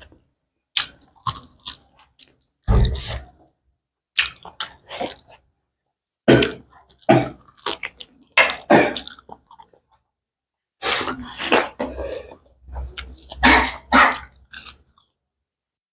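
Close-miked chewing of rice and pork curry eaten by hand: wet mouth and chewing sounds come in irregular bursts, with short dead silences between them.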